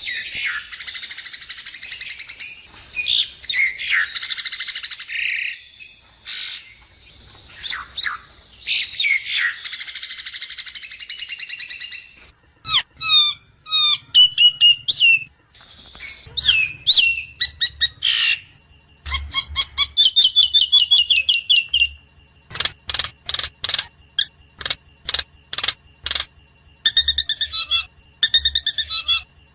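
Javan myna calling: harsh, scratchy chattering for about the first twelve seconds, then a mix of short whistled notes, quick trills and fast runs of evenly spaced sharp notes.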